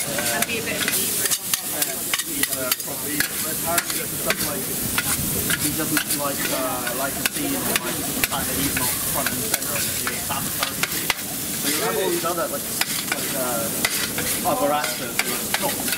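Food sizzling in a hot pan, stirred and scraped with a utensil that clicks and knocks against the metal many times over a steady frying hiss.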